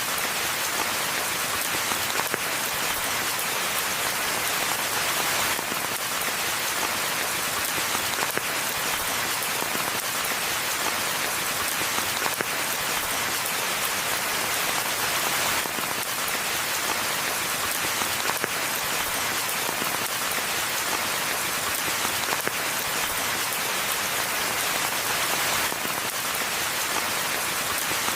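Steady rain falling on a forest floor, an even patter of many drops.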